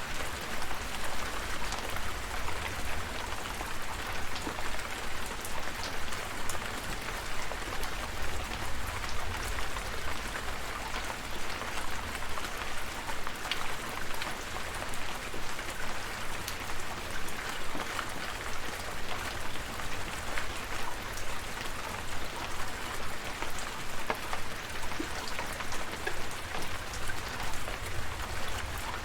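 Steady rain falling: an even hiss with many small drop ticks, over a steady low rumble.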